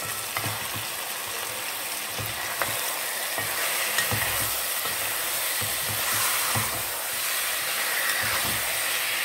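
Curry chicken sizzling in a hot pot in its own juices, no water added yet, while a spoon stirs it, with irregular soft knocks and scrapes of the spoon against the pot.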